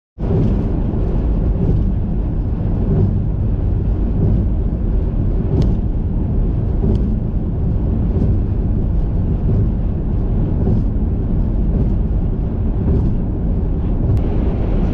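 Steady low road and engine rumble inside a moving car at highway speed, with a few faint ticks.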